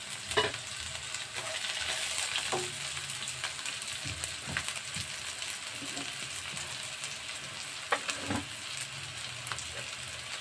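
Sliced onions, green chillies and coriander sizzling in oil in a non-stick wok: a steady frying hiss, with a few short scrapes of a spatula stirring through the pan.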